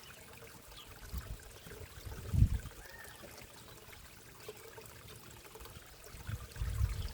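Water trickling steadily into a backyard koi pond. A brief low rumble comes about two and a half seconds in, and again near the end.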